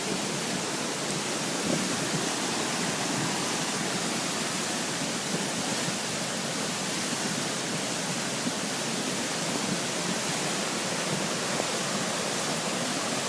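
A mountain brook in flood, its high, fast water rushing in a steady roar, swollen by hurricane rains.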